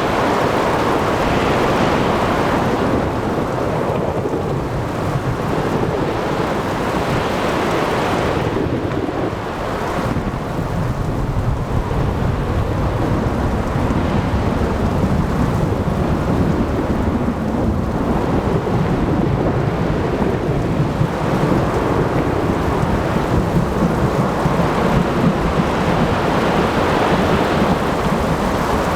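Thunderstorm at sea: steady heavy rain and the wash of waves, swelling and easing every few seconds, under low rolling thunder that grows heavier through the second half.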